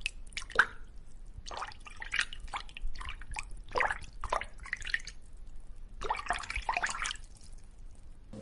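Irregular wet dripping and splashing sounds, a few small splashes a second.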